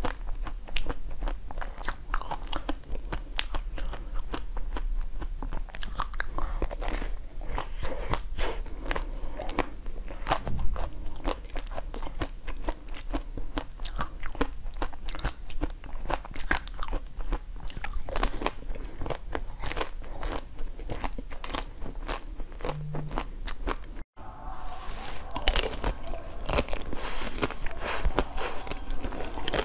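Close-miked eating: bites and chewing with dense crackly crunches. The sound drops out briefly about 24 seconds in, then the crunchy chewing resumes.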